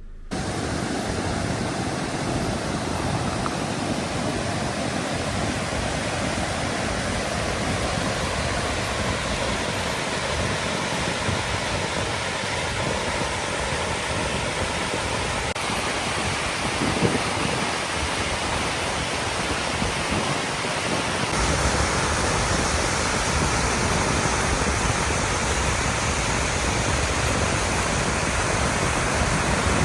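Steady roar of rushing water, an even hiss with no pitch to it. About two-thirds of the way in it turns a little louder, with more deep rumble.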